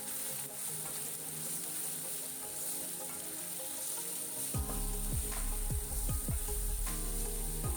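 Onion and spice masala sizzling in oil in a pan as it is stirred, with background music; a low, thumping beat joins the music a little past halfway.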